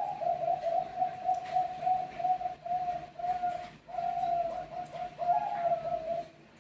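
Zebra dove (Bangkok perkutut) singing: a long run of short, evenly repeated coo notes at about three a second, with a brief dip about four seconds in.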